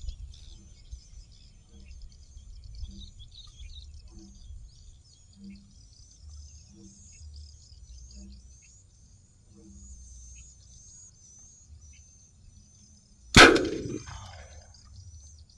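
A homemade spray-fuelled bird-scaring gun ("gedosan") fires once near the end with a single loud bang and a short ringing tail, set off to chase birds from a rice field. Before the bang, faint high-pitched chirping of birds and insects over low wind noise.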